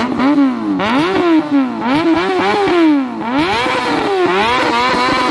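Honda CBR600 inline-four sport-bike engine being revved in quick repeated blips, its pitch rising and falling about every half second, then held at a steadier speed near the end.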